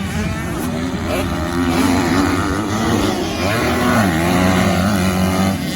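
Motocross bike engine running hard on a dirt track, its pitch rising and falling with the throttle and gear changes; it gets louder in the middle and drops off near the end.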